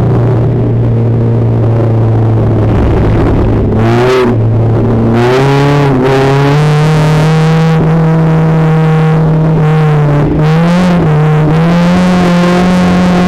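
Renault Twingo race car's 1.6-litre four-cylinder engine heard from inside the cabin, running at a steady pitch, then climbing in two steps about four and five and a half seconds in and holding the higher pitch, with a brief dip near ten seconds.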